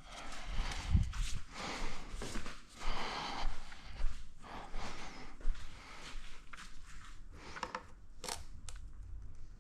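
Plastic clips and rubber hoses being handled and pried on a motorcycle airbox: rustling and scraping for the first half, then scattered handling noise with a few sharp clicks.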